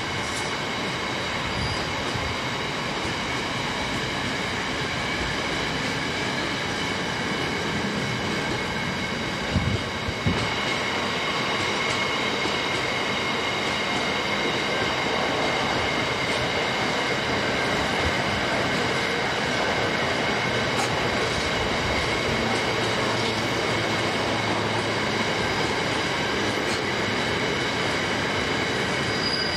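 Container freight train wagons rolling steadily past, wheels rumbling and clattering on the rails under a steady high squeal of several tones. Two sharp knocks about ten seconds in.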